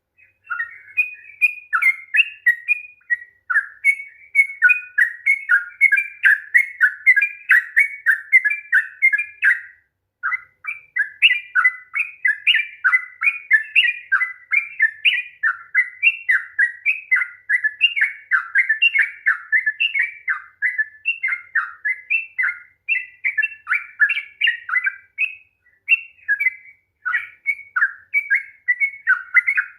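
Yellow-vented bulbul (trucukan) singing a long, fast 'ropel' song: a continuous run of quick chirping notes, with a brief pause about ten seconds in.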